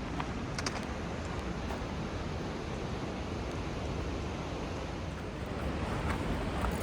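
Steady rush of river water running through rapids, with a few faint clicks under a second in.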